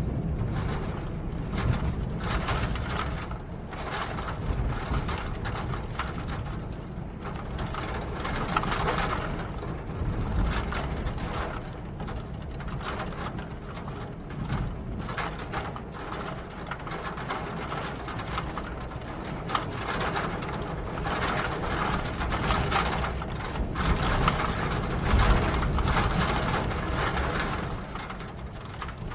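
Steady rain: a dense, irregular patter of drops over a constant low rumble.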